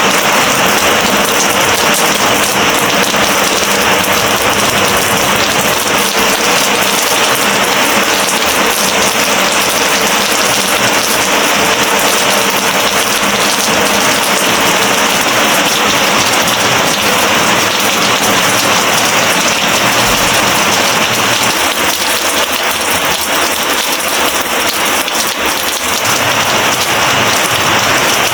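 Steady, heavy monsoon rain falling on a rooftop garden: a constant hiss of raindrops on leaves and hard surfaces.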